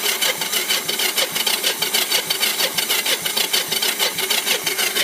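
Electric starter cranking a cold Kawasaki three-wheeler's engine in rapid even pulses without it catching, then cutting off suddenly just after the end. The choke is off because the owner suspects the engine is flooded.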